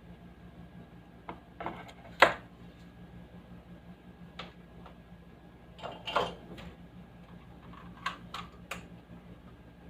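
Scattered sharp clicks and knocks of small parts or tools being handled, loudest about two seconds in and again around six seconds, over a faint steady low electrical hum.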